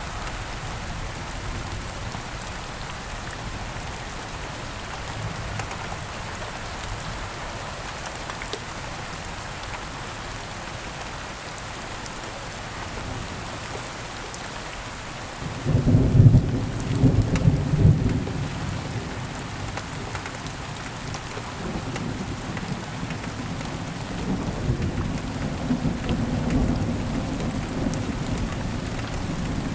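Thunderstorm: steady rain falling throughout, with a loud clap of thunder breaking suddenly about halfway through and rolling on as a lower rumble to the end.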